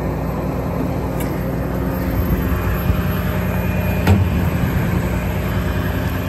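8.3-litre Cummins diesel engine of a Freightliner M2 service truck running steadily, with the truck's crane about to be worked. Its hum shifts about two seconds in, and a sharp clunk comes about four seconds in.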